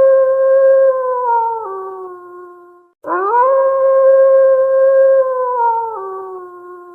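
Wolf howling: one long howl drops to a lower pitch and fades out about three seconds in, then a second howl rises quickly, holds steady, and steps down to a lower pitch before fading near the end.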